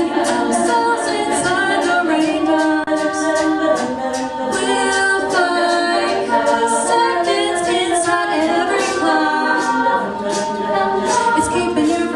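All-female a cappella group singing in close harmony, voices alone with no instruments, holding chords that shift about every second.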